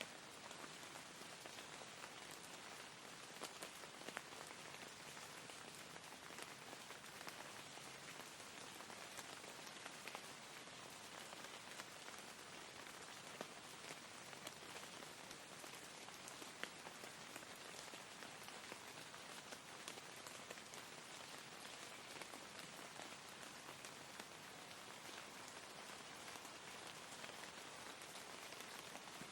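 Soft, steady rain falling, a gentle hiss with scattered faint drop ticks.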